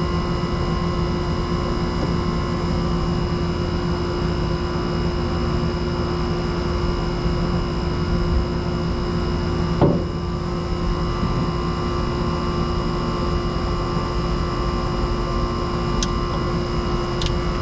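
Air conditioner outdoor unit humming steadily with a constant electrical drone, with a soft knock about ten seconds in.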